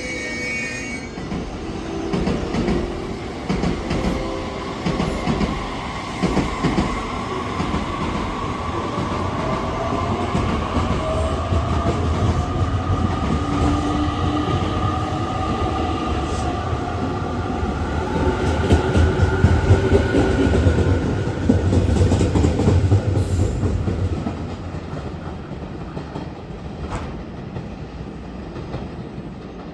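Electric train moving through a station platform: a motor whine rises slowly in pitch as it gathers speed, over a rumble of wheels on the rails that grows louder about two-thirds of the way through, then fades as it pulls away.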